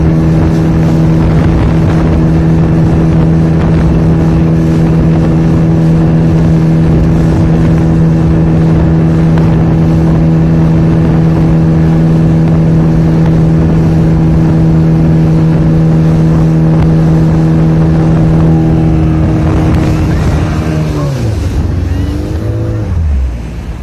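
Motorboat engine running steadily at high speed, then throttled back about 20 seconds in, its pitch falling away as the boat slows.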